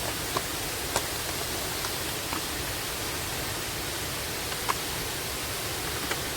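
Steady rush of a waterfall, with a few short clicks over it.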